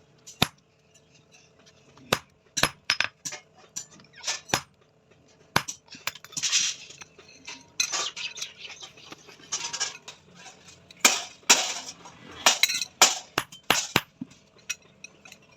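Irregular metallic clinks and taps of hand tools on small steel parts, with a few short scraping strokes in the middle.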